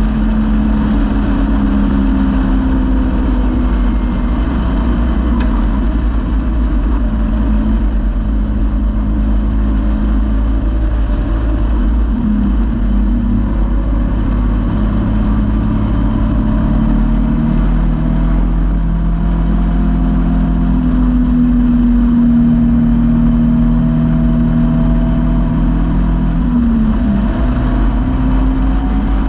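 Caterham's engine running under load while driving along an open road, heard from the open cockpit; the engine note shifts in pitch a few times as the car changes speed and gear. A steady low rumble, typical of wind buffeting an open car, runs underneath.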